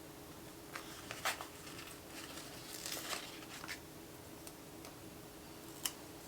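Stickers and paper planner pages being handled: scattered soft crinkles and taps, the sharpest about a second in and a single tick near the end, over a faint steady hum.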